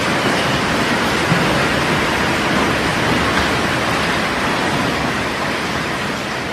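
Heavy rain pouring down in a dense, steady rush that eases a little near the end.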